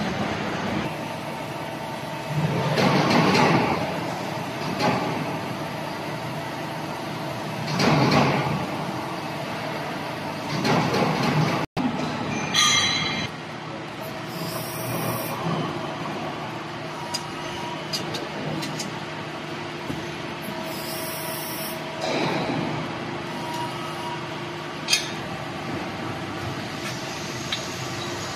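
Hydraulic CNC press brake running: a steady machine hum, with several louder surges a few seconds apart and short hisses now and then.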